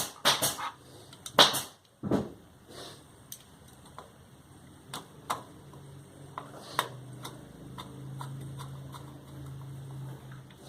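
Sharp clicks and knocks in the first two seconds, then scattered light ticks, from small parts and wires being handled while a sewing machine motor's wiring is reconnected. A low steady hum comes in about halfway.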